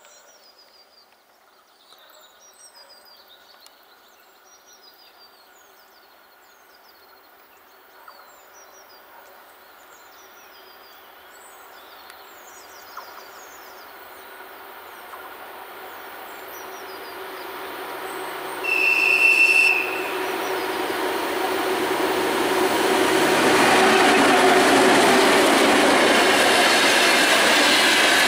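2M62UM diesel locomotive approaching with a freight train of loaded open wagons: its engine drone grows steadily louder over birdsong, a short high horn blast of about a second sounds roughly two-thirds of the way through, then the locomotive passes close and the wagons rumble by loudly.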